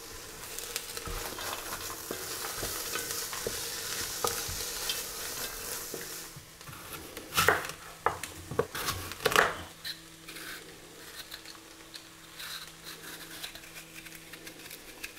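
Vegetables and chopped nuts sizzling in butter in an enamelled cast-iron pot while a wooden spoon stirs them. About seven seconds in, a few sharp knocks of a knife cutting an apple on a wooden cutting board, followed by quiet small knife sounds as the apple is peeled.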